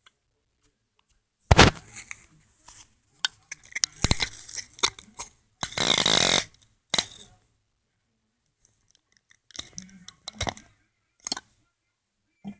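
Clear sticky tape being pulled off the roll with a rasping screech and torn, among sharp handling clicks and rustles. The longest pull, nearly a second, comes about six seconds in, with shorter strokes before and after.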